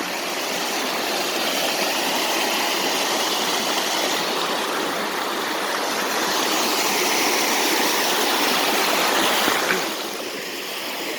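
Water running steadily over a small waterfall in a slow creek, an even rushing and splashing that eases a little near the end.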